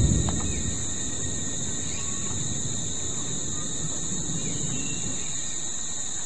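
Steady high-pitched insect chorus, a continuous shrill at two pitches, with the low tail of a thunder roll dying away in the first moment, under a rumbling storm sky.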